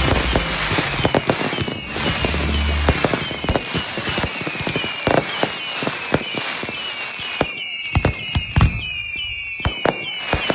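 Fireworks going off: a dense run of sharp bangs and crackles, with a high whistle that falls in pitch over and over, about twice a second. A low rumble underlies the first few seconds.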